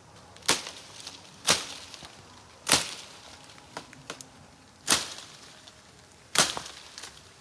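A blade chopping into a guava tree branch: five sharp chops at uneven spacing, one to two seconds apart, cutting off a forked branch for a slingshot frame.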